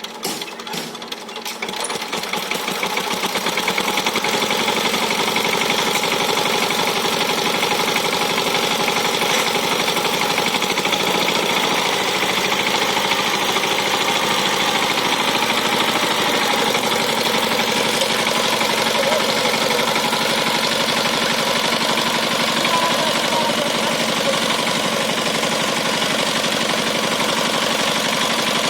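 Diesel power tiller engine running with a fast, even chugging clatter. It grows louder over the first few seconds, then runs steadily.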